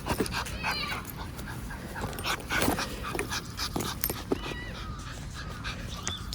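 A dog whining in a few short, high, wavering whimpers, among scattered clicks and rustling.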